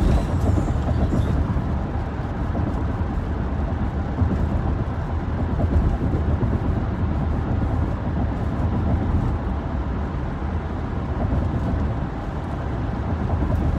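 Car being driven: steady engine and road rumble with no sudden events.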